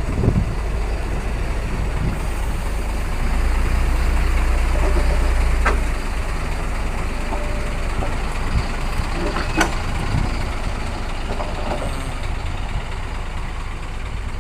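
Narrow-gauge diesel locomotive running at low revs as it moves along the other track, its engine a little louder between about three and six seconds in. A few short metallic knocks come about six, ten and twelve seconds in.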